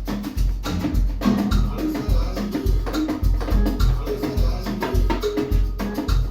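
Conga drums played by hand over a bass-heavy beat, with deep bass thumps repeating in a steady rhythm under the pitched drum tones.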